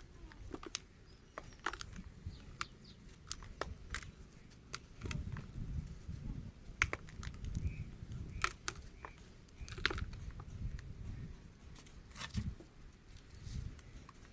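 A dry, dusty crumbly material being crumbled: irregular sharp crackles and snaps over low, uneven rubbing rumbles, busier in the second half.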